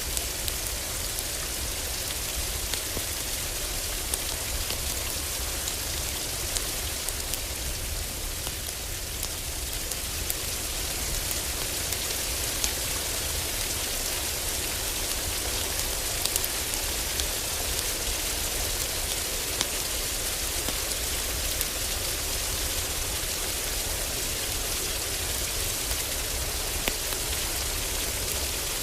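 Heavy rain falling steadily on a roof, with scattered sharp crackles and pops of a wood fire burning in a fireplace.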